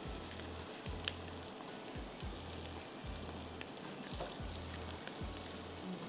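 Green chilies, ginger and garlic sizzling in hot oil in a wok while being stirred with a spatula, with a few light taps. Soft background music with a repeating low note underneath.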